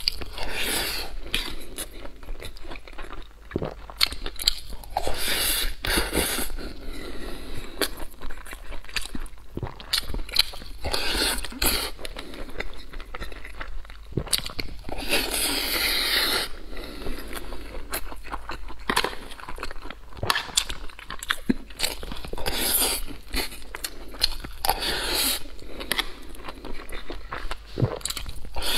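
Close-miked chewing and biting of mouthfuls of braised pork belly and purple rice, with a metal spoon scraping against a steel tray, a steady run of short wet clicks and crunches.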